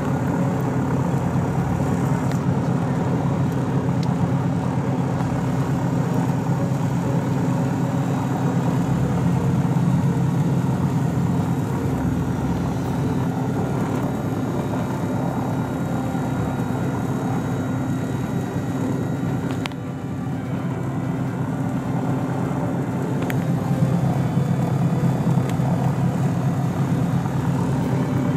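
Piston engines of a light twin-engine aircraft running steadily at constant power.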